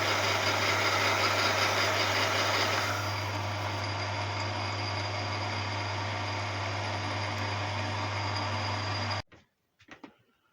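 Small metal lathe running with a steady motor hum while turning a roller, with a harsher cutting sound for the first three seconds. The sound cuts off abruptly about nine seconds in, followed by a few faint clicks.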